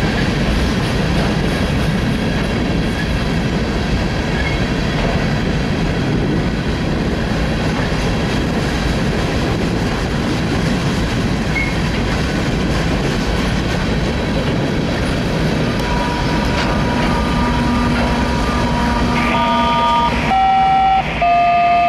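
Loaded rock train's hopper cars rolling past with a steady rumble and wheel clatter. Near the end a diesel locomotive's steady low drone comes in, along with a few sustained higher tones that shift in pitch.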